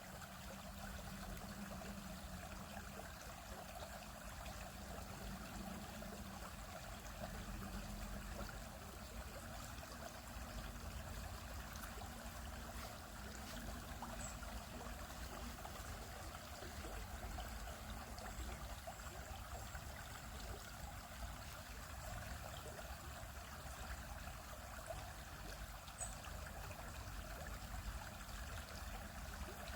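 Small stream flowing over rocks, a steady trickling and babbling.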